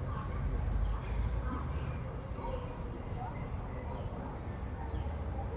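Steady high-pitched drone of insects, with a bird's short falling chirps repeating about once a second, over a low rumble.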